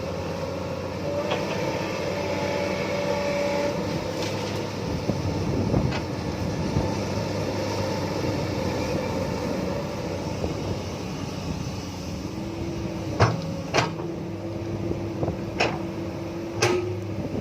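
Excavator's diesel engine running steadily, with a few sharp knocks near the end.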